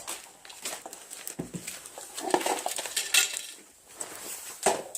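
Plastic Tupperware container being handled and thrown, clattering as it hits things: several separate sharp knocks and rattles.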